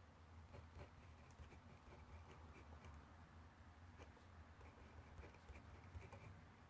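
Faint writing on paper: short, scratchy strokes of a pencil or pen across the page, over a steady low hum.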